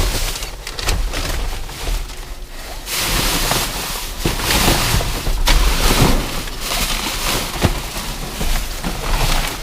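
Wind buffeting the microphone, gustier from about three seconds in. Scattered knocks and rattles of items being handled in a dumpster come through it.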